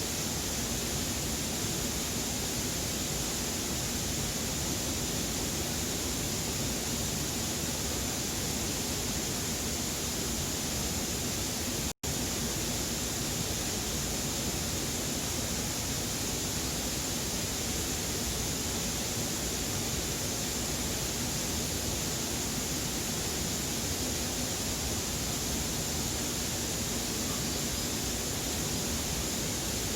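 Steady rushing of a valley stream, an even unbroken wash of water noise. It cuts out for an instant about twelve seconds in.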